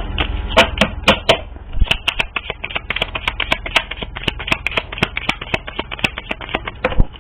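A deck of cards being shuffled by hand: a quick run of sharp card clicks and slaps, several a second, with a louder snap near the end.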